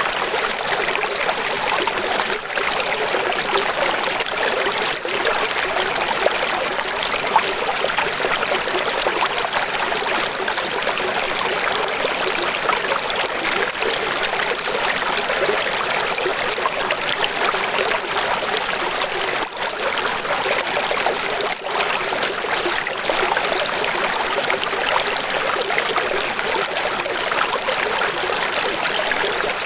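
Running water: a steady, even rush with little low end and no distinct splashes or drops standing out.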